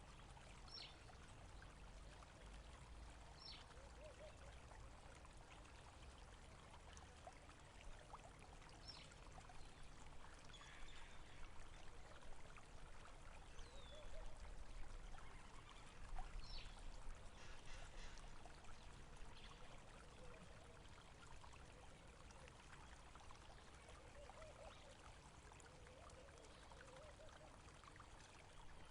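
Flowing stream water, a faint steady trickle and gurgle, with a few short high chirps every few seconds.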